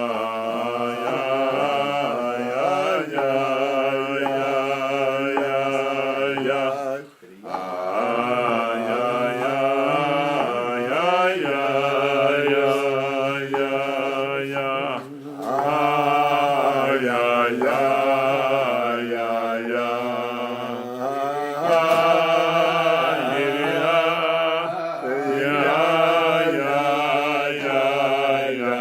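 A voice singing a wordless, slow melody, a Chassidic niggun, with wavering held notes and short breaks for breath about seven and fifteen seconds in.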